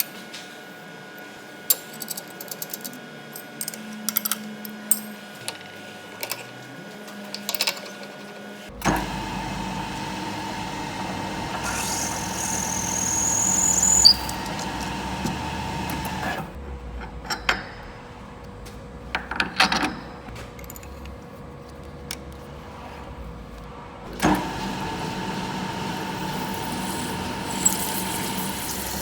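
Workshop machine tool running in spells: a steady machine hum with a held tone starts about a third of the way in, stops, and starts again near the end. A rising whine sits in the first run, and sharp clicks and knocks of metal parts and tooling fall in the quieter gaps.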